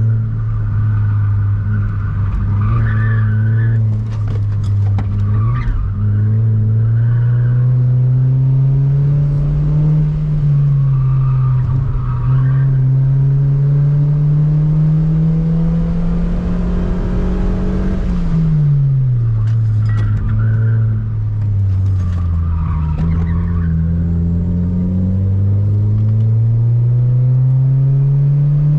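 Toyota Vios's 2NZ four-cylinder engine pulling hard through the revs on track. Its pitch climbs slowly, drops sharply at a gear change about eighteen seconds in and dips briefly twice more, with short tyre squeals at several points.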